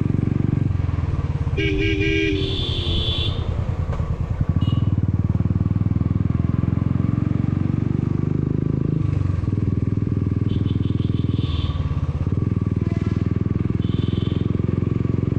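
Motorcycle engine running steadily on the ride, with a pulsing beat in the first few seconds. A horn beeps several times, once near the start with a louder low-and-high blast and then a few short beeps in the second half.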